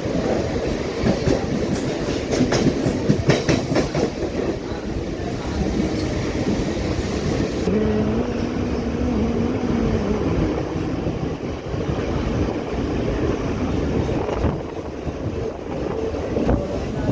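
Mumbai suburban local train running on the tracks, its wheels clattering over the rails with a rush of steady rumbling noise. A cluster of sharp clacks comes in the first few seconds, and a short steady tone sounds about halfway through.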